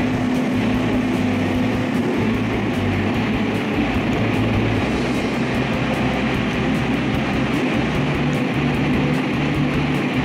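Steady running noise of an electric train on the rails, under background music with a stepping bass line and a light regular beat.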